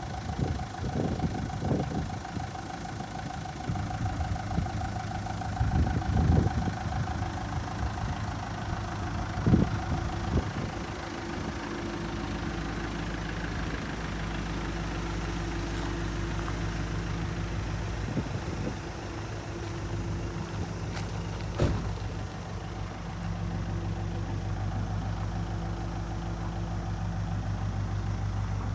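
Mitsubishi Rosa minibus's 4D35 four-cylinder diesel idling steadily. Scattered knocks and bumps over the first ten seconds or so, and a sharp click a little past twenty seconds.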